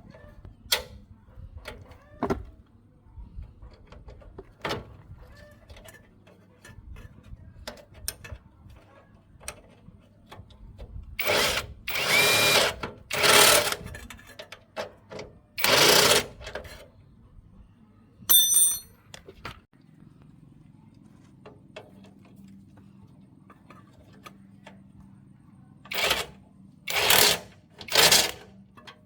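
Workshop tools in use: light clicks and knocks of handling, then several short loud bursts of a tool running, three in a cluster about halfway through and three more near the end, with a brief high beep between them.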